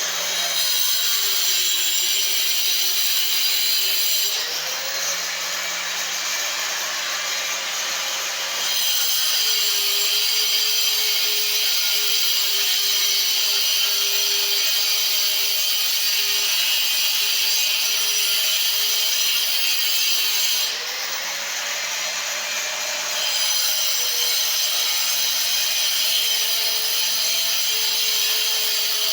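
Handheld power tool cutting through a plumbing pipe, the motor's pitch sagging under load while it cuts. Twice, about four seconds in and again about twenty seconds in, the cut eases off and the motor speeds up and quietens for a few seconds before bearing down again.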